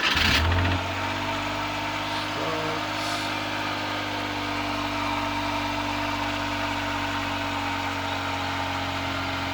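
2002 Suzuki Carry kei truck's small three-cylinder engine catching at the end of a short crank about half a second in, then idling steadily: its first start after sitting for over two years.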